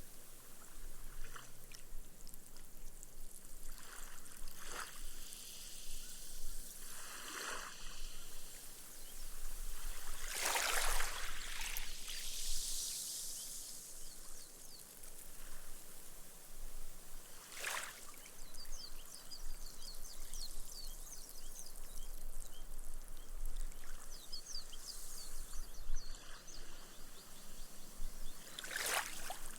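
Small, gentle waves washing up onto a sandy beach and drawing back, several times, each swell rising and fading. The loudest comes about a third of the way in. Between them is a faint crackling fizz as the foam bubbles sink into the sand.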